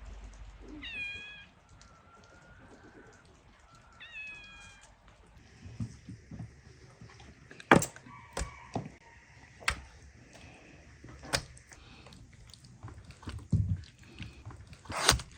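A cat meowing twice, short calls that rise and fall in pitch, then several sharp knocks and clicks.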